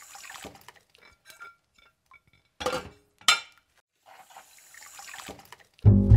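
Dishes being washed by hand at a steel kitchen sink: a ceramic plate and utensils clinking, with running and splashing water. Near the end, a plucked bass line of music comes in.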